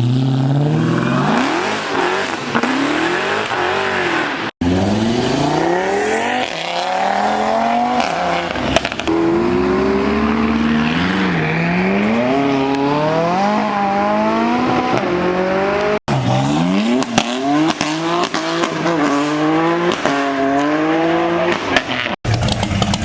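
Car engines revving and accelerating, their pitch climbing and dropping again and again. The sound breaks off abruptly three times.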